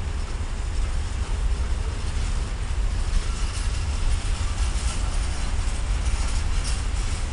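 Container freight train wagons rolling past: a steady rumble of wheels on the rails.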